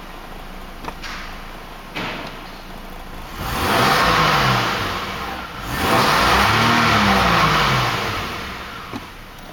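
Toyota Land Cruiser 80's 1FZ-FE straight-six petrol engine idling, then revved twice. The pitch rises and falls back each time, about three and six seconds in, and the second rev is held a little longer.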